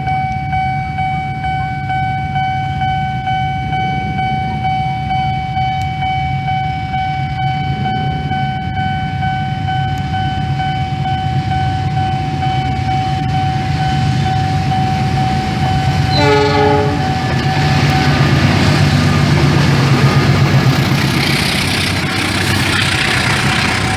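Two coupled diesel locomotives rumbling as they approach, with a thin steady high tone over the engine noise. About two-thirds of the way in there is a short horn sound, and then the rush of the train's wheels on the rails grows louder as it passes.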